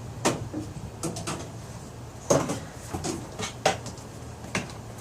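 Irregular sharp clicks and knocks, about eight in all, as a hose end is pushed and worked into a drilled hole.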